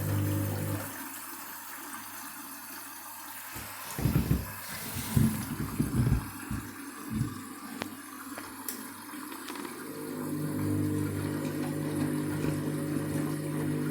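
Candy washing machine tumbling in its main wash: the drum motor hums steadily, stops about a second in, and water sloshes in the drum in uneven surges a few seconds later. The motor hum starts again about ten seconds in as the drum resumes turning.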